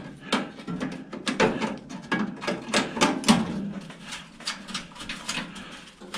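Irregular knocks, clicks and clatter of hands and tools handling the metal chassis of an old microwave oven being taken apart, busiest over the first few seconds and thinning out after.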